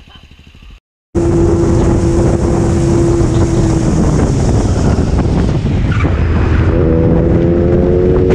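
Motorcycle riding at speed with heavy wind rush over the microphone. Its engine note holds steady, then rises near the end as it accelerates. It starts abruptly after a moment of silence just under a second in.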